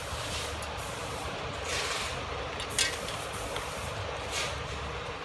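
Steady low background rumble with a few short hissing surges.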